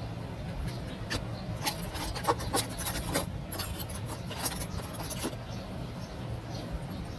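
A string of short scrapes and clicks, most of them between about one and five seconds in, from a hand tool working on a phone during repair. A steady low hum runs beneath them.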